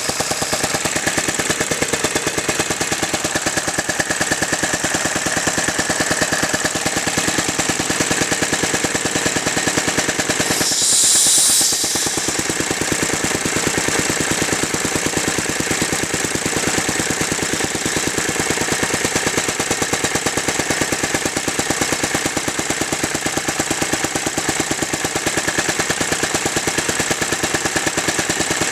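Lindsay air compressor running, its single-cylinder engine, built from Merkel motor wheel parts, firing in a rapid, even rhythm. About eleven seconds in, a loud hiss of escaping air lasts about a second and a half.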